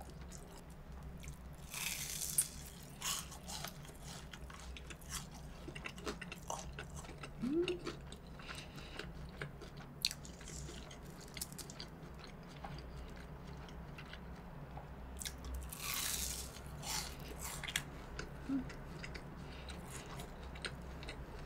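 Close-miked eating of a crispy deep-fried breaded pork cutlet (tonkatsu): crunching bites into the fried crust, two of them louder, with quiet chewing and small mouth clicks in between.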